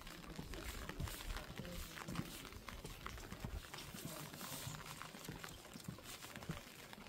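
Rainy street sound: a steady hiss of rain with irregular drips and taps, and footsteps on wet pavement.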